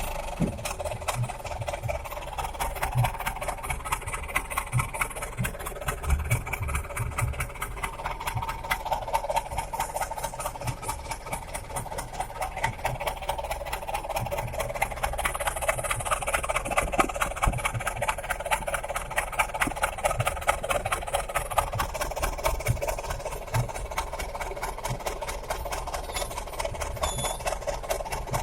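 Diesel engine of a pickup idling steadily through a modified "knalpot sos" exhaust, a rapid, even train of exhaust pulses.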